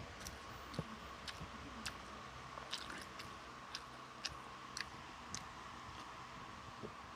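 A person chewing food close to the microphone, with scattered sharp wet mouth clicks about every half second.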